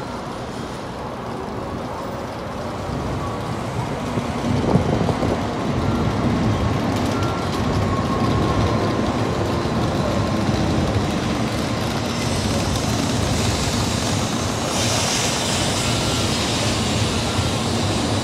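N700-series Shinkansen bullet train pulling into the platform: a steady rumble of wheels and running gear that swells over the first few seconds as it comes alongside. A brighter hiss joins in the last several seconds as it slows.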